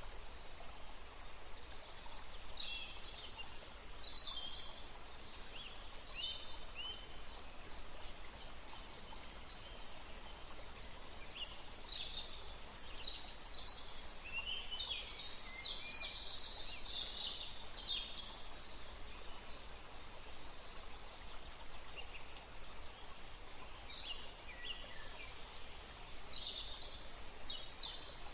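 Birds chirping: bursts of quick, high calls that come and go in busier spells, over a steady background hiss.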